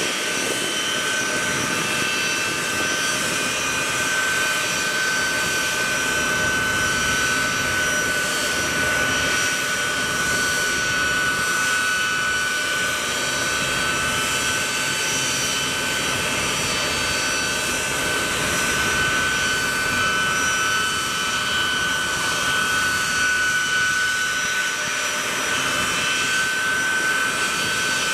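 Boeing C-17 Globemaster III's four Pratt & Whitney F117 turbofan engines running steadily, a constant whine with a strong high tone over a rushing noise.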